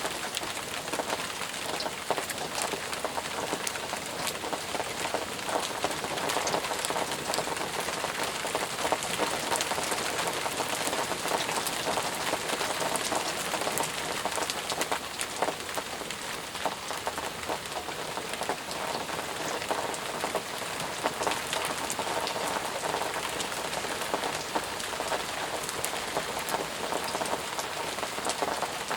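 Steady rain falling, a dense patter of individual raindrops over an even hiss.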